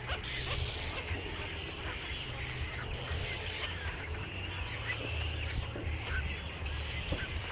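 Many birds calling and chirping, with calls overlapping throughout, over a steady low hum.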